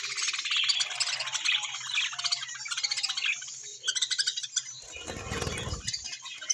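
Budgerigars chattering and warbling in a fast, continuous stream of twittering notes. A brief low rumble of noise comes about five seconds in.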